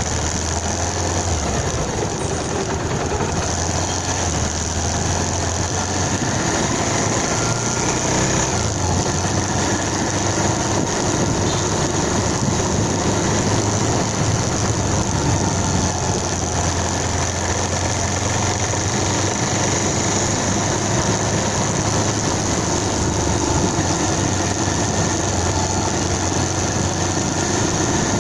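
Motorcycle engine running steadily, with a continuous low hum under a steady wash of noise.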